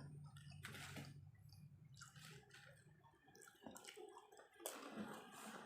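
Near silence with faint eating sounds: a few soft mouth and food-handling noises, the sharpest near the end.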